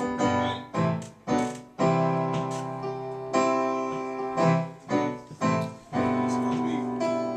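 Keyboard playing piano chords, each struck, held and left to fade, with a new chord about every half second to second.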